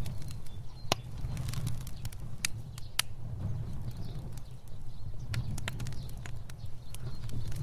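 Fire burning: a steady low rumble of flames with irregular crackles and sharp pops, the strongest pops about one second and three seconds in.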